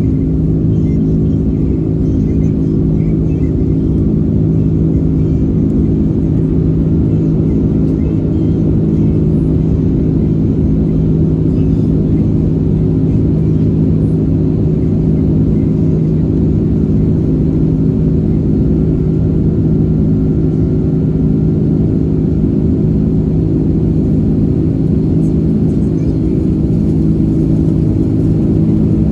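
Steady cabin drone of an Airbus A330-300 in flight: a continuous low engine and airflow rumble with a constant hum, unchanging throughout.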